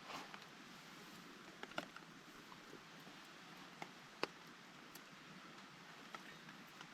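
Sparse, irregular drops of rain or drips from the trees tapping on leaves and tarp over a faint steady hiss, one tap about four seconds in louder than the rest.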